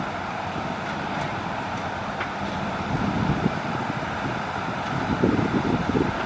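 Hitachi hydraulic excavator's diesel engine running steadily, swelling in level a couple of times as the machine works.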